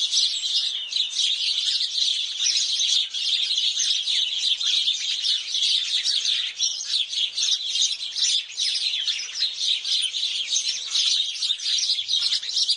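A flock of house sparrows chirping continuously, many short calls overlapping at once without a break.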